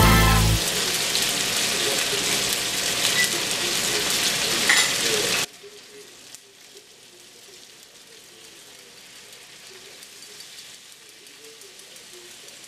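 Shrimp frying in oil in a cast-iron skillet, a steady sizzle that drops suddenly to a much quieter level about halfway through.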